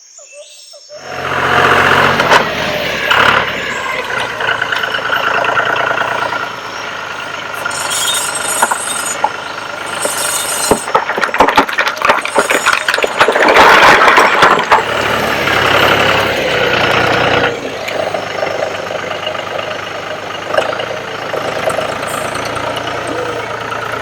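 Heavy vehicle engine running, with a stretch of sharp clattering and knocks about halfway through.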